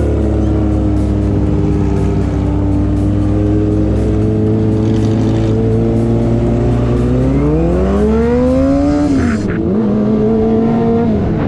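Kawasaki ZX-25R's inline-four engine through an aftermarket racing exhaust, running at a steady pitch, then revving up hard about seven seconds in and dropping sharply near nine seconds as it shifts gear before settling steady again.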